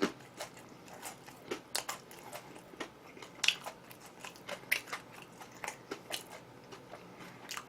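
A person chewing crispy fried chicken, with irregular crunching bites and mouth clicks.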